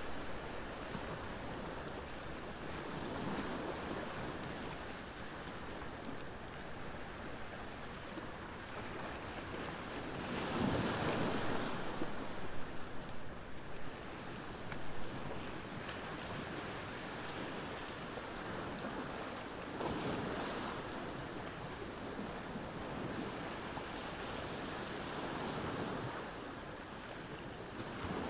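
Ocean waves washing onto the shore over a steady hiss, with a swell every several seconds. The biggest wave comes about ten seconds in.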